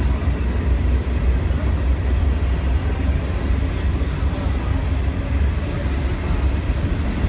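Coal hopper cars of a Buffalo & Pittsburgh freight train rolling past at close range, a steady rumble of steel wheels on rail.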